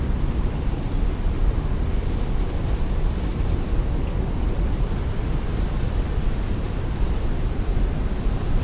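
Heavy rain beating on a window while strong wind rushes, making a steady, dense noise with a deep rumble to it.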